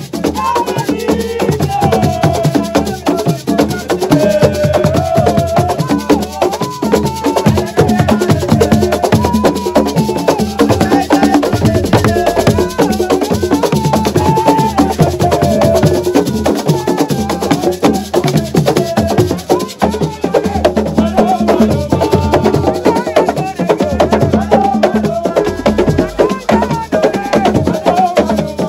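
Assiko music: dense, fast percussion on drums and wooden-sounding strikes, with a singer's voice carrying the melody over it.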